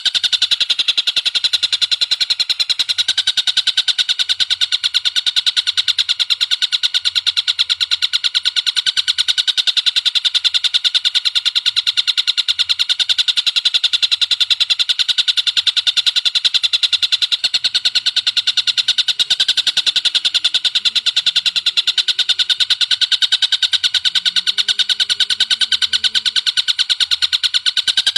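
Bird calling: a rapid, unbroken series of sharp, high repeated notes. Faint low tones come in near the end.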